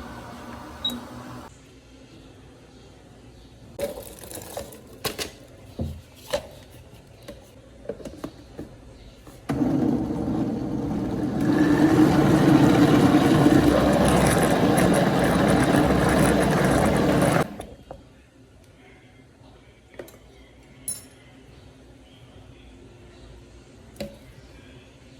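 Kitchen blender running for about eight seconds, first at a lower level and then louder partway through, before being switched off. Scattered clicks and knocks come before and after it.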